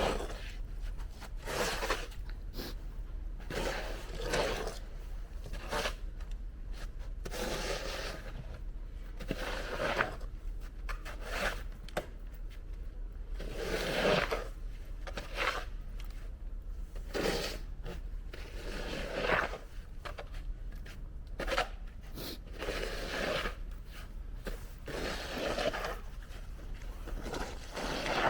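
Scraping and crunching noises, repeated irregularly about every one to two seconds, over a low steady hum.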